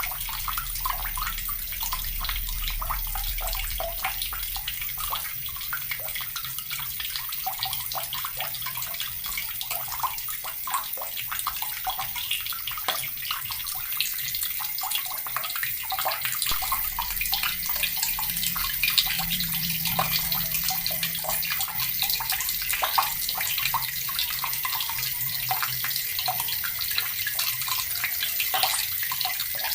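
Water running steadily from a tap and splashing into water below, a continuous hiss with fine spattering.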